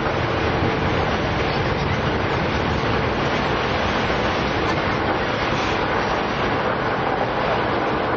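JR East E233-5000 series electric train running at steady speed, heard from inside the passenger car: a constant rushing of wheels on rail and wind, with a faint steady hum. The high end carries extra hiss from a recording-setting fault.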